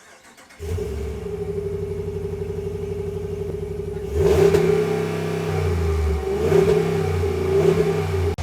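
A RAM Rebel pickup's 5.7-litre V8 running at a pulsing idle, then revved harder about four seconds in, with further throttle blips near the end.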